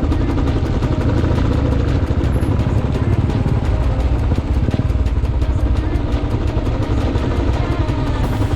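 Motorcycle engine running steadily, with a fast, even beat of exhaust pulses.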